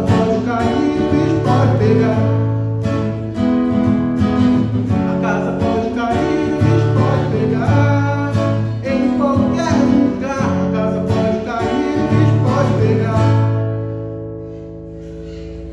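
Acoustic guitar strummed, with singing, in a song's closing bars; the last chord is held and fades about thirteen seconds in.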